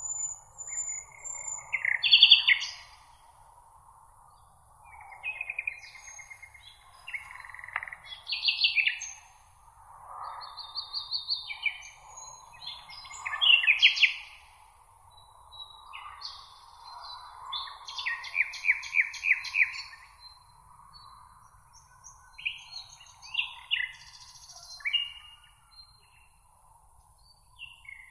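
Songbirds singing: short, varied chirps and trilled phrases every second or two, some as fast repeated notes, over a faint steady background hiss.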